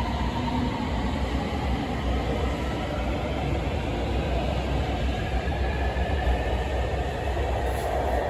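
Beijing Subway Line 8 train running, with a steady rumble and faint electric whines that glide in pitch, one falling at the start and one rising midway.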